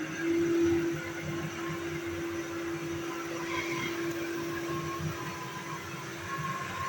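Vacuum cleaner running with a steady hum. Its pitch steps up slightly at the very start and it swells louder for about half a second.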